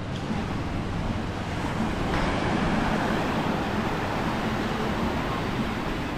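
Ocean surf washing onto the beach, with wind on the microphone. The rush of the surf grows louder and brighter about two seconds in.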